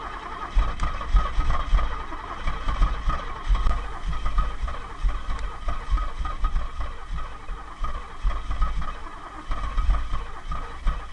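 Starter cranking the 350 small-block Chevrolet V8 on and on without the engine catching: a steady starter whine over uneven low chugging from the compression strokes. This is a failed cold start, long enough to heat the starter.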